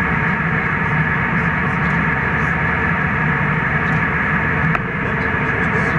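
Steady cabin noise of a jet airliner in flight: engine and airflow rush at a constant level, with a low hum and a steady high tone running through it.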